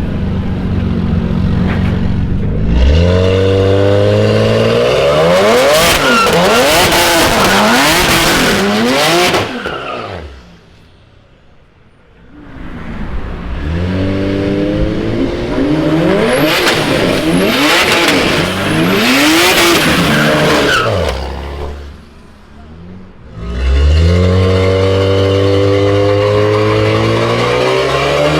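Tuned BMW 335i E91's turbocharged straight-six through an Akrapovic exhaust, revving hard in three loud runs, the pitch leaping up and then climbing and swinging up and down, with tyre squeal from burnouts. The sound drops away briefly twice between the runs.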